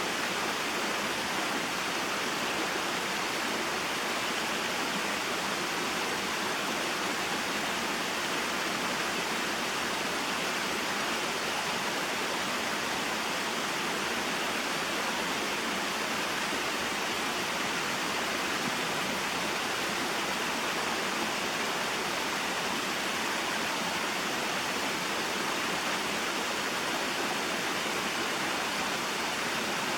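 Small waterfall and mountain stream: water falling and flowing in a steady, even rush.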